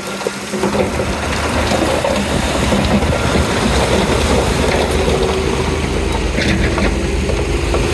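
Komatsu D31P crawler bulldozer working: a steady diesel engine running with track and blade noise, and a steady tone joining about halfway through.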